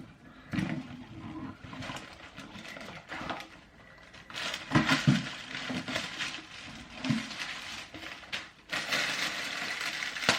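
Gift-box packaging being handled and opened: a ribbon pulled off and the box and its wrapping rustling, with a few soft knocks and a denser crinkling near the end.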